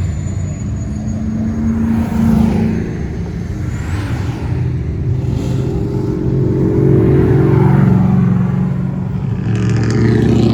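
Classic cars driving slowly past one after another, their engines rumbling loudly as each one swells and fades.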